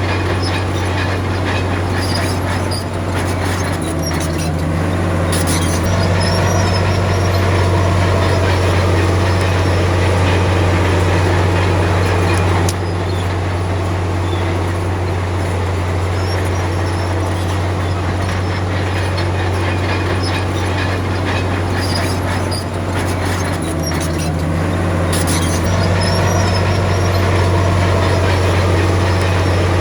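Bulldozer's diesel engine running steadily under load, with track clanking and short high squeaks that come and go twice as it works.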